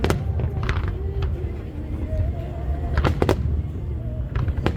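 Aerial fireworks bursting: several sharp bangs, two in quick succession about three seconds in, over a steady low rumble of the display.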